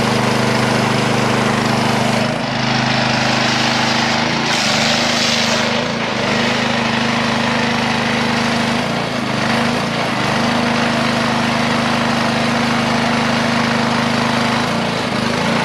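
A motor or small engine running steadily with an even hum and hiss, dipping briefly a few times.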